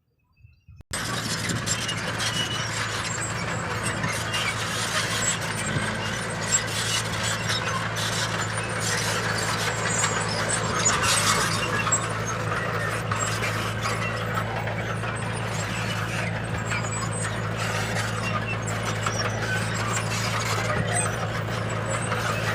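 Heavy diesel earthmoving machinery running: a steady low engine drone with dense higher clanking and grinding over it. It starts abruptly about a second in, after near silence.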